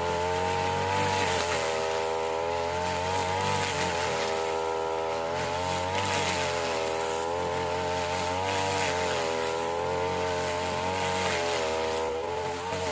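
Small petrol engine of a grass-cutting machine running steadily at high speed, its pitch dipping and recovering every few seconds as it takes the load of the grass.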